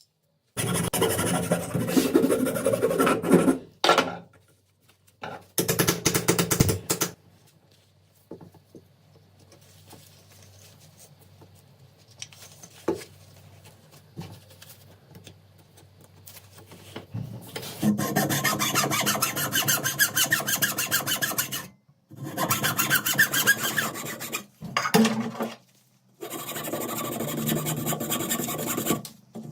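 Rasping abrasive hand work on rusty AK-47 metal parts, in spells of fast strokes with a quiet stretch in the middle.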